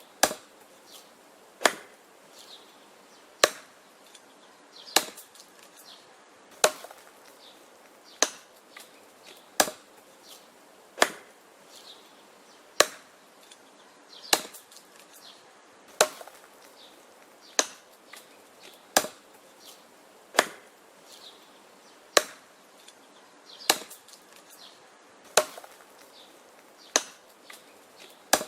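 Wood being chopped with an axe: sharp chopping strikes at a steady pace, about one every second and a half, with fainter knocks between them.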